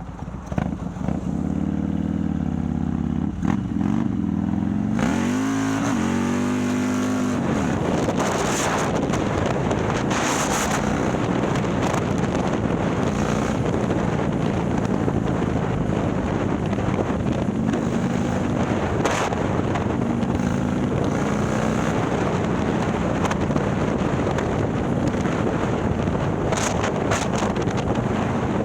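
Harley-Davidson Milwaukee-Eight V-twin, bored out to 130 cubic inches and breathing through a ThunderHeader exhaust, getting louder about a second in and rising and falling in pitch through the first seven seconds as the bike accelerates. It then runs at a steady cruise under rushing wind noise.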